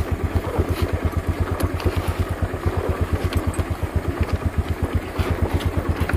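Honda motorcycle engine running at low revs, a steady low exhaust beat of about eight pulses a second that has a 'helicopter' sound.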